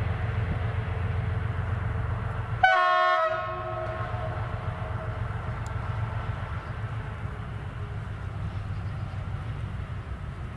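Train running with a steady low rumble, and a locomotive horn giving one short loud blast about three seconds in.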